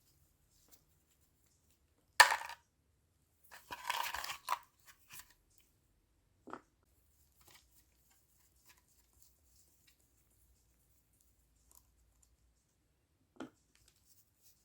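Workshop handling noises while the valve cover is unbolted from a cylinder head: a sharp clack about two seconds in, then about a second of scraping and rattling, and a few faint knocks.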